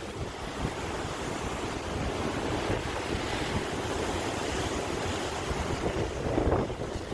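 Sea waves washing on a shore, a steady surf wash with one wave swelling louder near the end, and wind buffeting the microphone.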